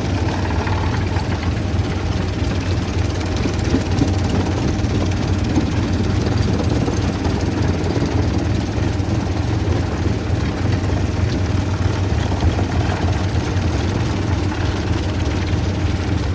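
Heavy machinery running steadily at a stone-crushing site: a constant low engine drone under a rough mechanical noise.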